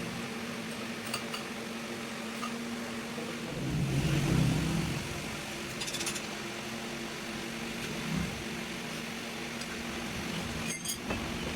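Metal tools and gear parts clinking now and then over a steady mechanical hum, with a louder low rumble swelling about four seconds in.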